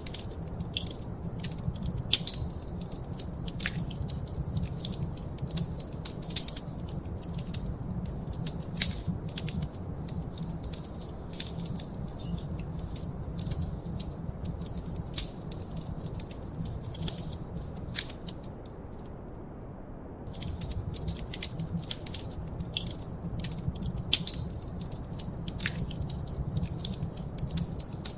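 Wood fire in a fireplace crackling, with frequent sharp pops and snaps over a low steady rumble. The crackling drops out for about a second and a half near two-thirds of the way through, leaving only the rumble, then resumes.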